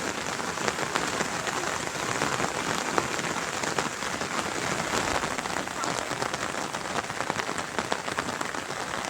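Steady rain falling, a dense hiss full of fine drop patter hitting surfaces.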